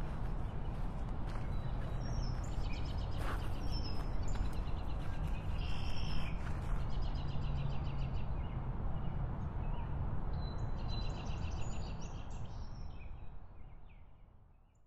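Outdoor ambience: small birds chirping over a steady low rumble, fading out over the last few seconds.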